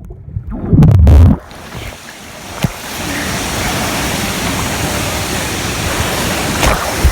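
Camera held underwater: muffled low thumps and sloshing for about the first second and a half. It then breaks into a steady rush of splashing, moving water.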